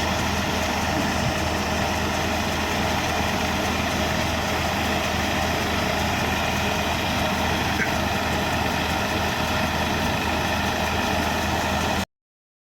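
Tractor engine running steadily at constant speed while driving a threshing machine, the thresher's dense steady rushing mixed in; it cuts off suddenly near the end.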